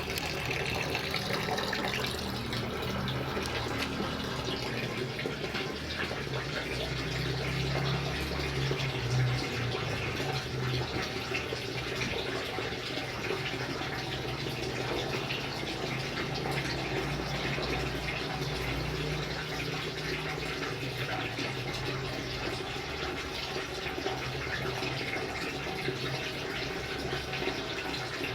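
Steady rain falling: an even wash of water with many fine drop ticks, and a low hum underneath that is strongest about eight to ten seconds in.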